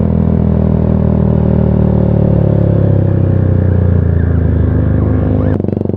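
Motorcycle engine running loud through a custom-welded exhaust under steady throttle while riding, its note easing slowly down. About five and a half seconds in, the sound drops suddenly.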